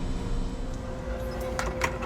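A steady mechanical hum with a couple of steady tones that come up about half a second in, and two sharp clicks or taps near the end.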